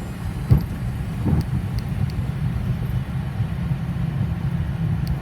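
Steady low rumble of a Boeing 737 taxiing on its engines at idle, with one sharp bump about half a second in.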